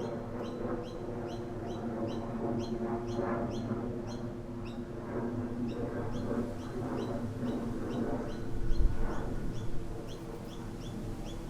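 A small bird chirping over and over, short rising notes about three a second, over a steady low background of breeze. A brief gust buffets the microphone about nine seconds in.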